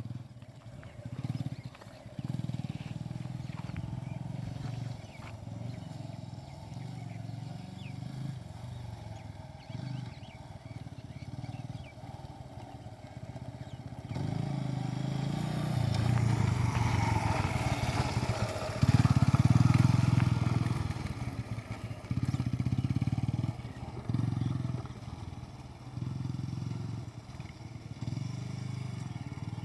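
An old motorcycle's engine running while being ridden, the throttle opened and eased off in uneven spurts, loudest about two-thirds of the way through. It is given somewhat more throttle, as an old bike needs.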